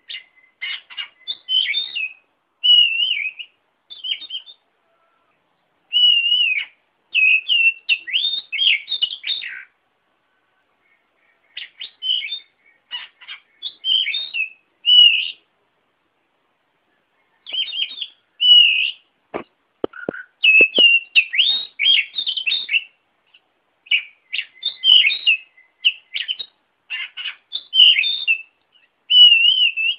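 A songbird singing bursts of rapid, varied whistled and chattering phrases, separated by short silences, played as a tutor song for oriental magpie-robins. A few sharp clicks sound about two-thirds of the way through.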